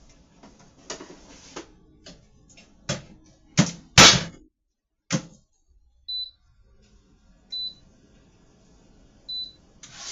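A few knocks and clattering, the loudest about four seconds in, then three short high beeps a second or two apart from an air fryer's control panel as it is set to cook.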